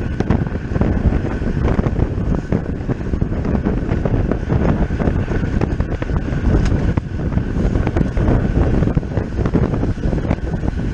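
Wind rushing over the microphone of a camera on a bicycle ridden at race speed, with a faint steady high tone and scattered small ticks under it.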